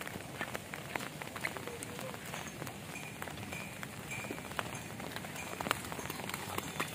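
Steady rainfall, with many separate drops ticking on nearby surfaces.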